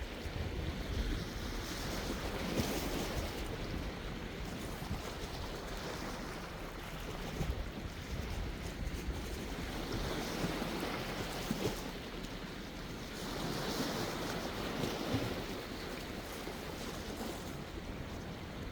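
Sea waves washing on the shore, swelling louder a few times as sets come in, with wind rumbling on the microphone underneath.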